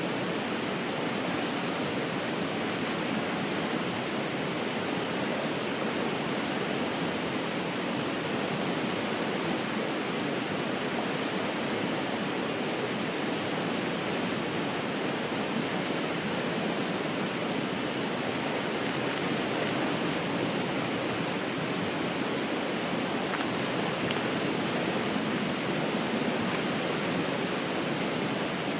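Steady rushing of flowing river water, an even noise with no breaks or changes.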